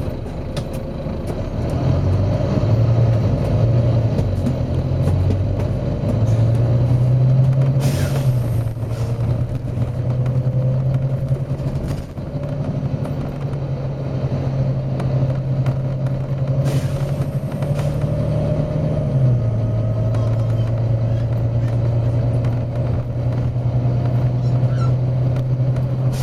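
Volvo B9TL double-decker bus's diesel engine running, its note rising and falling with a step down about three-quarters of the way through. Two short hisses of released compressed air from the bus's air system come about 8 seconds in and again about 17 seconds in.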